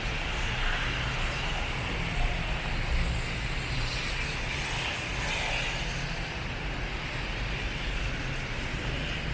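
Steady city road traffic on a rain-wet street: a low engine rumble under a continuous hiss of tyres.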